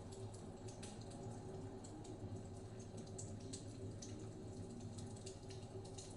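Wood fire crackling in a fireplace: irregular small snaps and pops over a steady low rumble.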